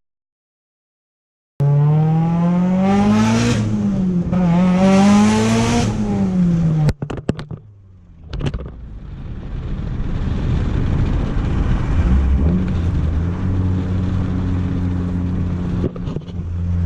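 Car engine revved twice, each rev rising and falling in pitch, then after a short break a steady low engine running that slowly grows louder. The car is a heavily modified 2003 Mitsubishi Lancer Evolution 8 GSR with a turbocharged four-cylinder.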